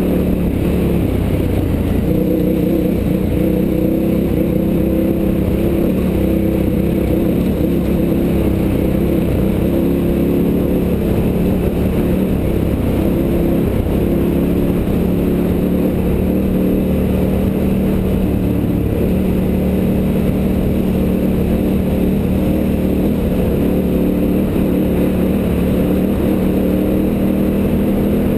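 KTM 990's V-twin engine running at an even, steady pace on a gravel road, with a constant low wind and road rumble over the camera.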